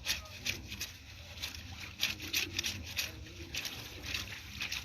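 Wet clothes being scrubbed by hand, cloth rubbed against cloth in quick, uneven strokes.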